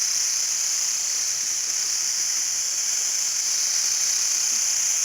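A steady high-pitched hiss that does not change.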